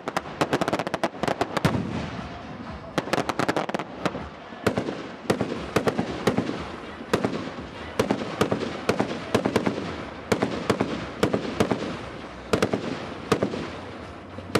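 Fireworks going off: quick crackling clusters of bangs in the first few seconds, then single bangs about once or twice a second over a steady rumble.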